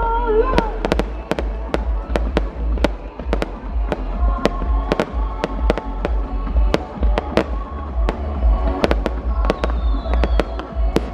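Fireworks display: rapid, irregular bangs, several a second, with music playing underneath.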